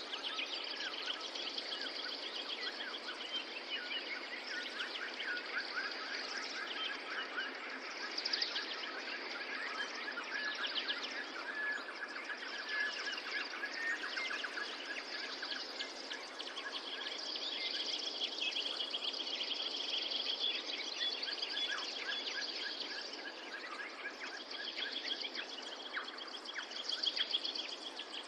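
Many songbirds chirping and trilling at once, calls overlapping without pause over a steady background hiss.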